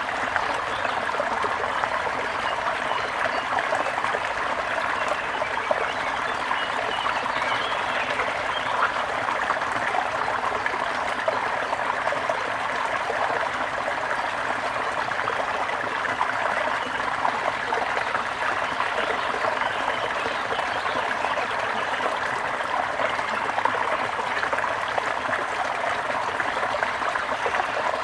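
A small stream trickling and splashing steadily.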